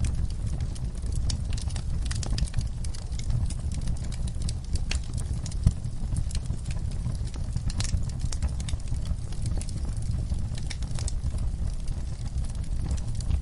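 Wood fire crackling in a fireplace: irregular sharp pops and snaps over a steady low rumble of flames, with one louder pop a little before the middle.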